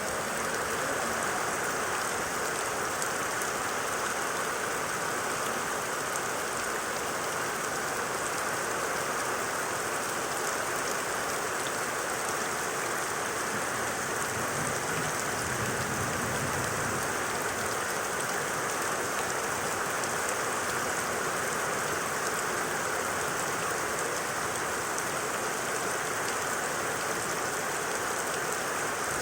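Heavy rain pouring down steadily, picked up by a CCTV camera's microphone.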